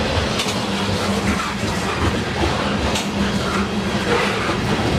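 Norfolk Southern covered hopper cars rolling past close by: a steady rumble of steel wheels on rail, with a couple of sharper clicks from the wheels crossing rail joints.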